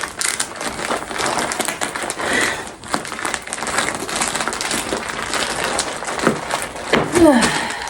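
Plastic packaging crinkling and rustling as it is cut open with scissors, full of small crackles and snips. A short falling vocal sound comes near the end.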